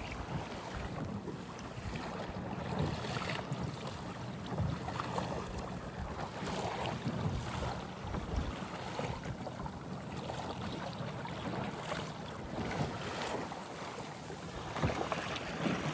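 Wind buffeting the microphone and choppy sea water slapping against a kayak under way, over a faint steady hum from its 30 lb electric trolling motor.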